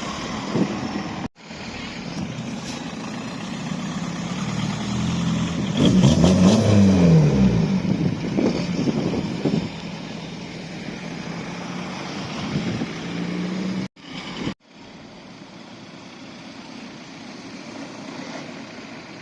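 Car engine revving as a car drives by, its pitch rising and falling, loudest about six to eight seconds in. The sound cuts out abruptly a couple of times, then an engine runs more quietly.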